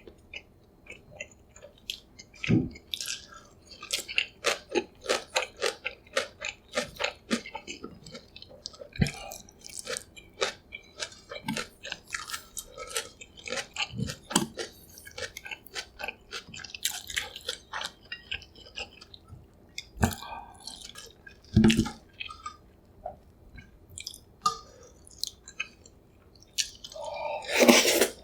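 Close-miked ASMR eating sounds: irregular wet chewing and small mouth clicks, with a louder burst near the end.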